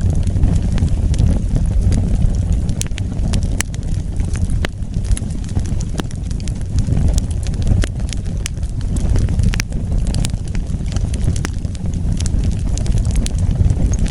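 Wood fire burning: a steady low rumble of flames with scattered sharp crackles and pops from the burning wood, several a second at irregular intervals.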